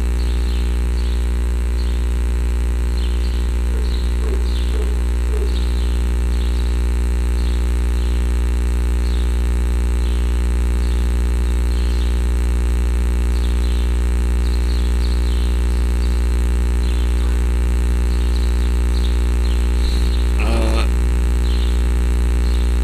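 Steady low electrical hum with many evenly spaced overtones, unchanging throughout. Faint short high chirps come and go over it.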